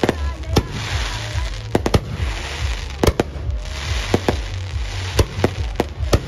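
Fireworks display: a dozen or so sharp bangs from bursting aerial shells at irregular intervals, over continuous crackling.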